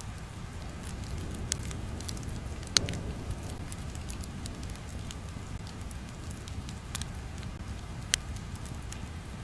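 Crackling fire: a steady low rumble with scattered sharp pops and snaps, the loudest about three seconds in and another near eight seconds.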